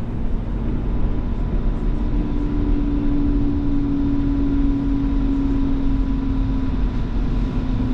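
Alstom Citadis Spirit light rail vehicle running, heard on board: a steady rumble of wheels on rail with a motor hum that slides slightly lower through the middle.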